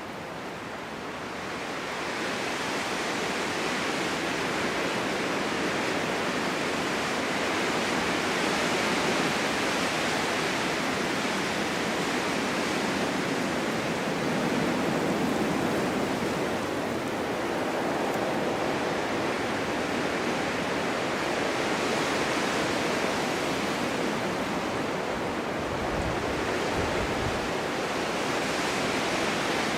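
Strong winter wind blowing steadily through a forest in a snowstorm, a hiss that swells about two seconds in and then rises and falls slowly in gusts.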